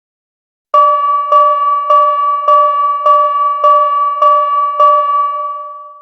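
A bell-like chime struck eight times at a steady pace, a little under two strikes a second, each ringing on, the last one fading out.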